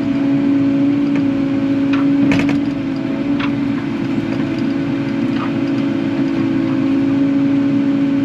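Kubota KX080 excavator's diesel engine running steadily while digging, with a few short knocks about two to three and a half seconds in.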